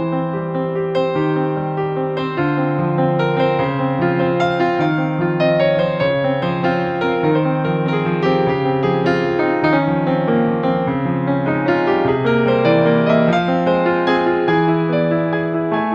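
Background piano music, a continuous melody over held chords.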